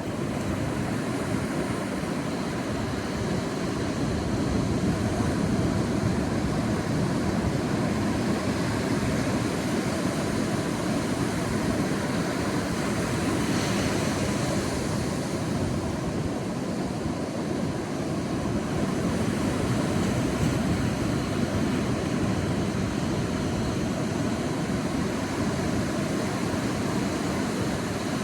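Sea waves on a beach: a steady low rumble of surf that swells and eases slowly, with a brighter hiss of a wave breaking about halfway through.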